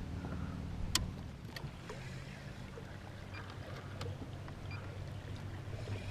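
Kayak being paddled on calm water: a steady low rumble with a few sharp knocks, the loudest about a second in and another near four seconds.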